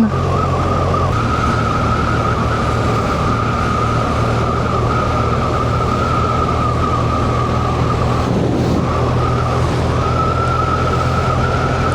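Motorcycle engine running at a steady cruising speed, mixed with road and wind noise, with a steady higher whine over a low engine hum.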